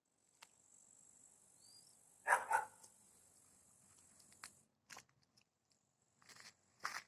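A dog barking twice in quick succession, over a faint steady high hiss, with a few light clicks later on.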